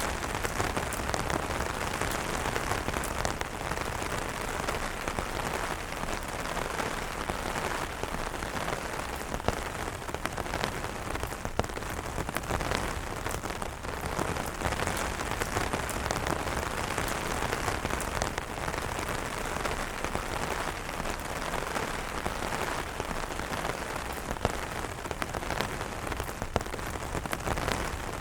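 Steady rain pattering on umbrella fabric, a dense even hiss of drops with scattered sharper individual drop taps.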